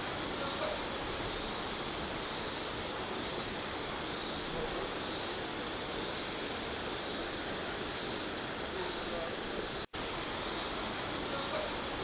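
Daytime forest ambience: a steady wash of water-like noise with insects (crickets) chirping at an even pace, high-pitched, about three chirps every two seconds. The sound cuts out for a split second about ten seconds in.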